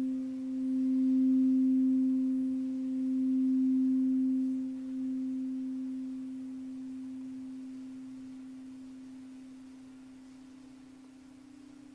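A single held pure tone from a sound-bath instrument, with a faint octave overtone. It swells and wanes a few times, then rings on and slowly fades away from about five seconds in.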